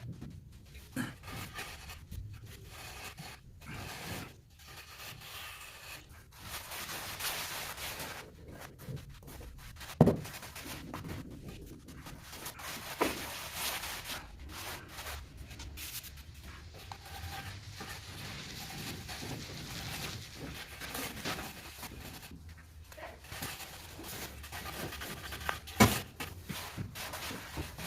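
Trowel scraping and smoothing cement mortar on a floor, in long strokes, with a few sharp knocks of the tool.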